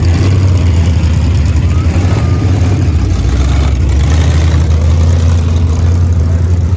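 Pure stock dirt-track race car's V8 engine running steadily at low speed with a deep, even drone.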